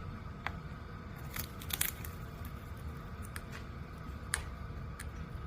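Parrot nibbling and crunching a snack with its beak: scattered sharp cracks and clicks at irregular intervals, with a quick cluster of them about two seconds in.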